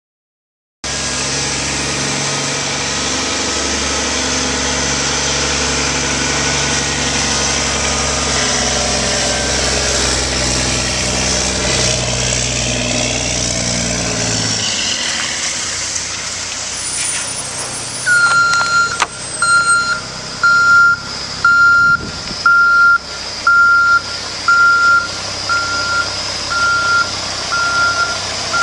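2006 Mack MR690S refuse truck's 12-litre inline-six diesel running steadily; about halfway through the deep engine note drops away. From about 18 s the truck's reversing beeper sounds, one high beep roughly every second, as the truck is put in reverse.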